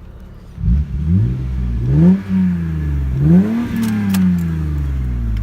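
Car engine comes in sharply and is revved twice, the pitch rising and falling each time, then runs steadily.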